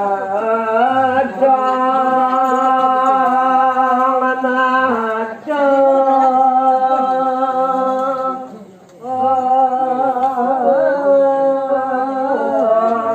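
One voice chanting in long held, slowly bending notes, in the manner of a Balinese devotional chant. The phrases break off briefly about five seconds in and again around nine seconds in.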